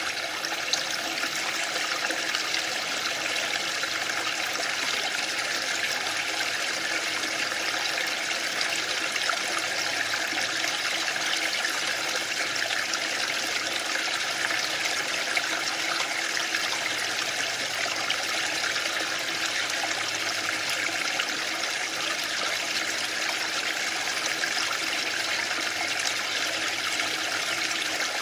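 Waterfall: a steady, even rush of falling water with no swells or breaks.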